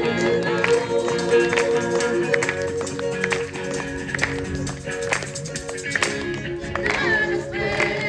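Live strummed guitar music with a steady rhythm, with voices and some hand clapping.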